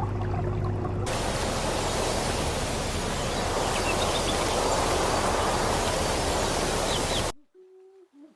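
Steady rushing water that cuts off suddenly near the end, after a brief stretch of a low steady hum in the first second.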